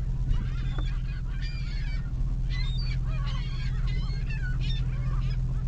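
Several gulls squawking, many short calls overlapping one after another, over a steady low hum from the truck's idling engine.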